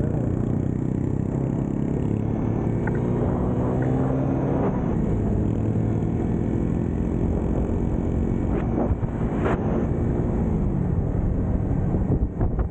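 Motorcycle engine running on the move with wind rushing past, its pitch steady and then dropping twice, about a third of the way in and again near the end, as the throttle is eased off.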